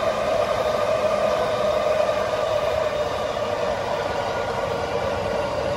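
Electric commuter trains running past on the rails, a steady rumble with a held whine that drops slightly in pitch.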